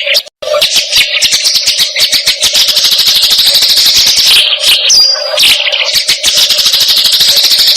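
Loud, dense, rapid chattering calls from a bird-tutor (masteran) recording, in a pattern that seems to come round about every four and a half seconds.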